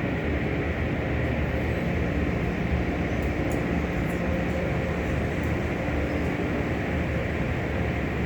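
Belanger automatic car wash tunnel equipment running: a steady mechanical rush with a constant low drone.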